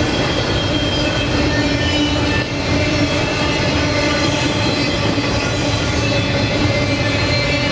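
Double-stack intermodal well cars rolling past on steel rails: a steady, loud rumble of wheels on track, with several thin steady ringing tones from the wheels on the rail.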